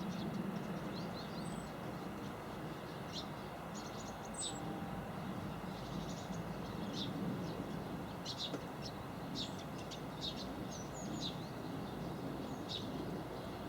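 Small garden birds giving short, high chirps and calls, scattered irregularly, over a steady low background rumble.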